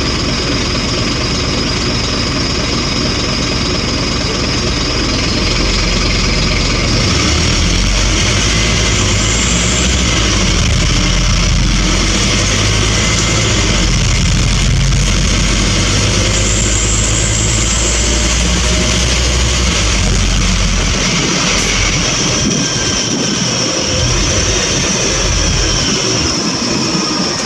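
Scania N230UB single-deck bus heard from on board, its engine running steadily with a high whine over it. The deep engine note is strongest for the first two thirds and falls away about 21 seconds in, as the engine eases off.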